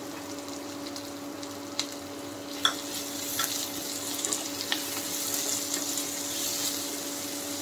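Sliced vegetables and chopped tomato sizzling in hot oil in a nonstick kadai as they are stirred with a wooden spatula, with a few light clicks and scrapes of the spatula against the pan. A steady low hum runs underneath.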